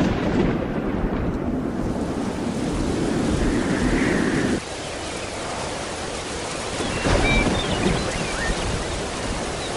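Heavy rain with rumbling thunder, which cuts off abruptly about halfway through. Steadier rain follows, with faint short chirps over it.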